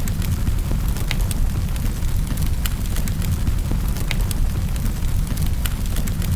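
Fire burning in a fireplace: a steady low rumble of flames with sharp crackles and pops at irregular intervals, about one or two a second.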